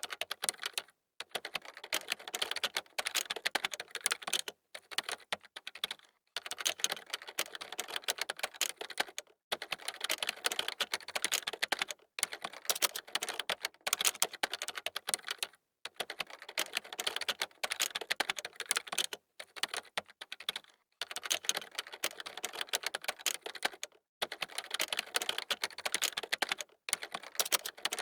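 Fast typing on a computer keyboard: dense runs of key clicks broken every few seconds by brief pauses.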